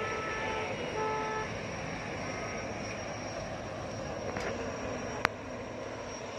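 Two short vehicle-horn toots in the first second and a half, over a steady outdoor traffic din, with one sharp click about five seconds in.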